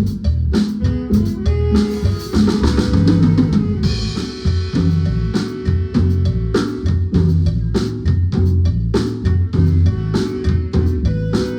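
Guatemalan marimba band playing a dance tune, with a drum kit keeping a steady beat over low bass notes. Cymbals wash over the music from about two to five seconds in.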